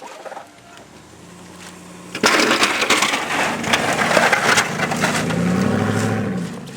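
Plow truck pushing snow: about two seconds in a loud crunching and scraping starts and goes on for about four seconds, with the engine revving up and back down under the load near the end.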